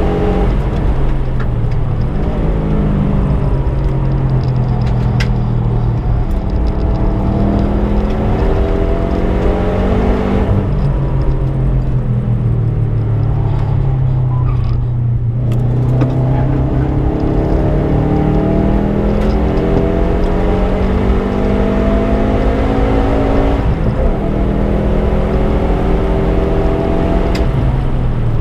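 340 bhp Subaru Impreza's flat-four engine under hard track driving: the revs climb and drop back several times as it shifts up through the gears. About a third of the way in the revs fall away for several seconds as it slows, then climb through the gears again, with another brief drop near the end.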